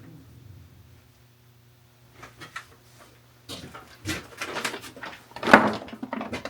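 Galvanized steel pipe fittings handled on a workbench: a run of clinks and knocks, the loudest a little past halfway, over a steady low hum.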